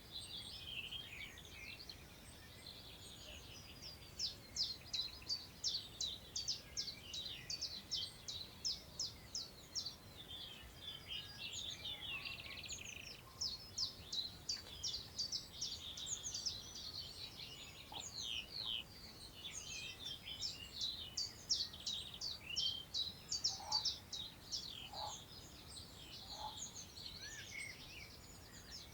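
Several songbirds singing at once in a dense chorus of fast, high, repeated down-slurred notes and trills, with a few short lower notes about three-quarters of the way through. A faint, steady rush of wind lies underneath.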